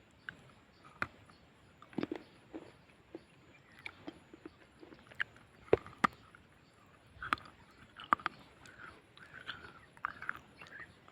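A person biting and chewing hard, dry mineral chunks such as clay or slate close to the microphone: irregular sharp crunches, a few seconds apart at first and then closer together, with softer grinding chews between them.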